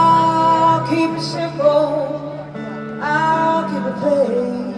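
Live rock band playing: long, held melody notes, one near the start and one about three seconds in, over bass and guitar.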